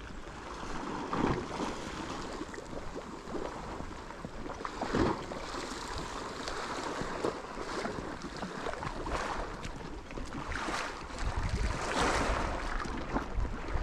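Outdoor wind and water noise: a steady rushing haze with a few soft swells, and wind buffeting the microphone with a low rumble near the end.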